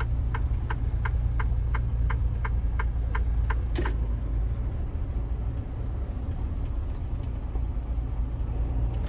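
Semi-truck diesel engine running with a steady low rumble, while an indicator relay ticks evenly about three times a second. The ticking ends a little under four seconds in with one sharper click, leaving only the engine.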